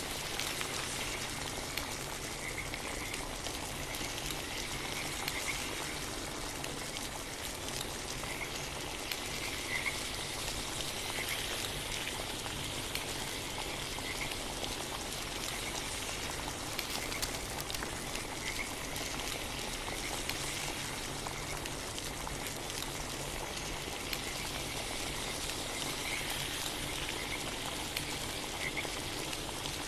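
Frogs croaking, short calls scattered every second or two, over a steady dense hiss with fine crackle.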